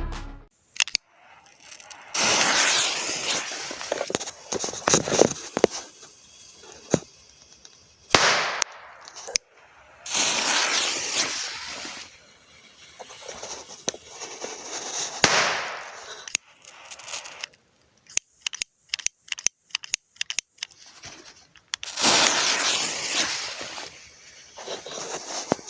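Mini PT2 firecrackers going off one at a time: several sharp single bangs spread several seconds apart. Between the bangs are stretches of hissing noise and a run of rapid small clicks.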